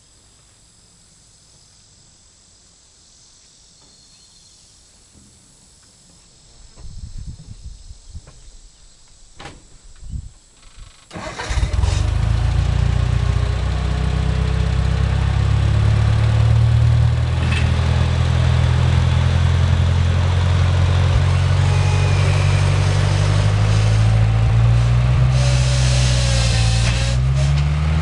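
Gehl 4400 skid steer starting up: a few seconds of irregular knocks and rattles, then the engine catches about eleven seconds in and runs loud, its pitch rising and falling.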